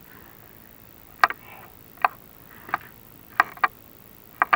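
Sharp, irregular clicks and taps, about six of them, from a chimney inspection camera and its rods knocking against the clay flue tiles as they are worked in the flue.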